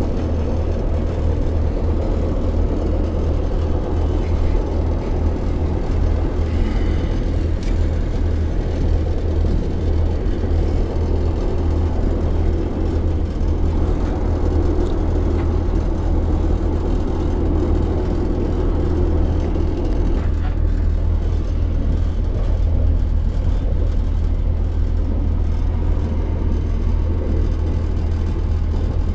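Inside the passenger carriage of a Class 168 Turbostar diesel multiple unit under way, a steady low rumble from the train's running gear and engines.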